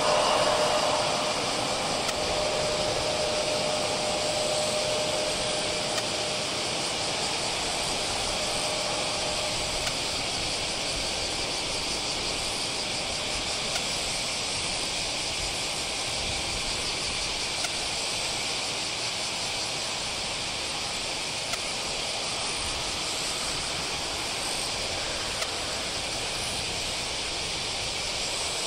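Steady hissing jet aircraft noise heard from a distance, with a faint steady tone that fades out about ten seconds in.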